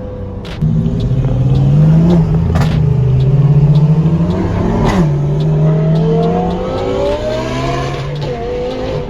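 Car engine running and accelerating. Its note steps up about half a second in, climbs, and drops sharply about five seconds in, with a second, higher engine note rising slowly after that.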